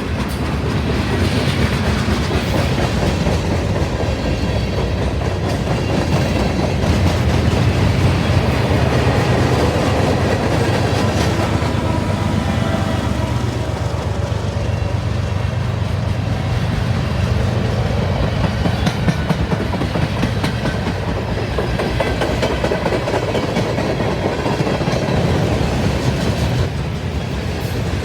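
Norfolk Southern general manifest freight train rolling past, its cars making a steady rumble with a continual patter of wheel clicks over the rails.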